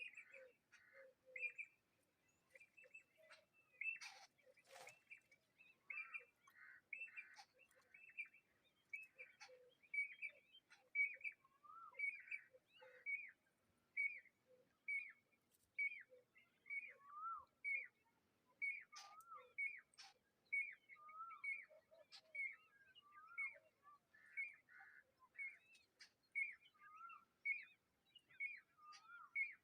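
Bird giving short, repeated chirps, about two a second, with fainter lower notes and occasional down-slurred calls among them.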